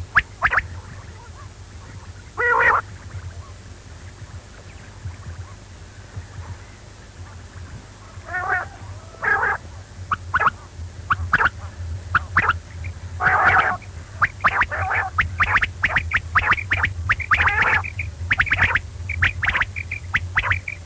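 Quail calling: many short, sharp calls, coming thicker and faster in the second half, with a few longer buzzy calls among them, over a steady low hum.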